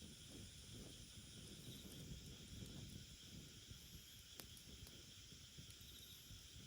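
Near silence: faint steady hiss and low rumble of outdoor air, with a single faint crackle from the small wood fire about four seconds in.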